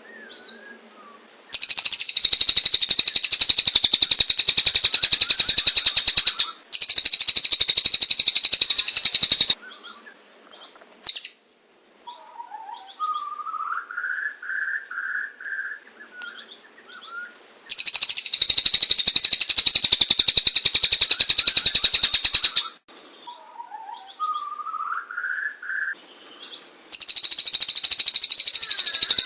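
Birds singing: long, very fast, high-pitched trills ('roll tembak' style), loud and lasting several seconds each, come four times. Between them are quieter chirps and a slower run of lower notes that rise in pitch.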